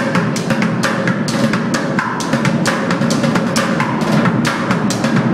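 Bucket drummers playing a fast, steady rhythm with sticks on plastic pails, dense sharp strokes over a deep hollow thud.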